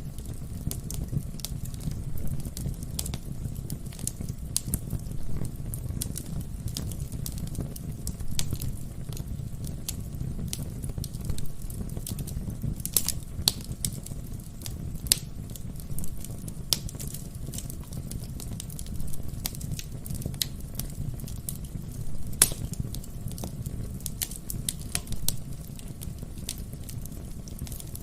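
Wood fire burning in a fireplace: a steady low rumble of the flames with irregular crackles and sharp pops from the burning logs, a few louder snaps along the way.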